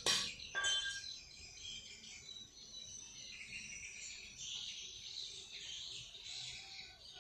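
Songbirds chirping in a dense, high-pitched chorus. It opens with the last of a run of loud, evenly repeated calls, the final one about half a second in.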